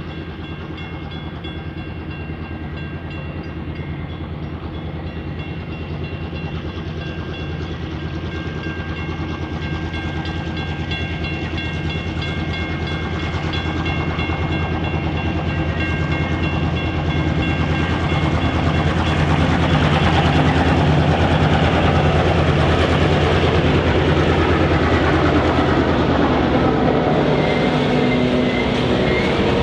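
Diesel-electric freight locomotives (ex-Alco and Clyde-GM units) hauling a grain train, their engines growing steadily louder as they approach and pass about two-thirds of the way in. After that comes the noise of the grain hopper wagons rolling past on the rails.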